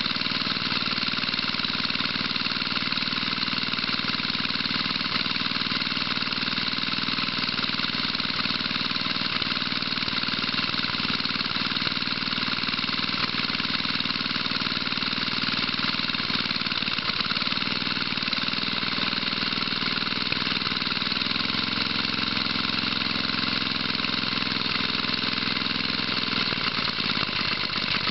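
1975 Tecumseh 5 hp single-cylinder engine running steadily after a cold start; its note shifts a few times in the second half.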